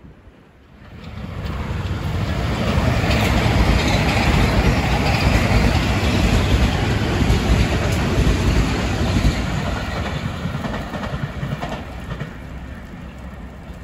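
Metro-North M7A electric commuter train passing at speed: a rumble of wheels on rail with clicking over the rail joints. It builds from about a second in, is loudest through the middle, and fades as the train pulls away.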